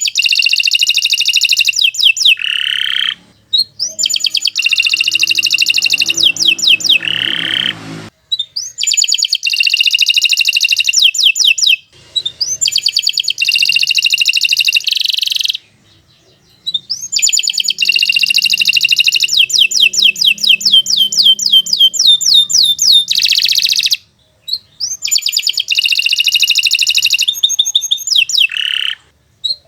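Domestic canary singing long, fast rolling trills of rapidly repeated high notes, in phrases several seconds long with brief pauses between them.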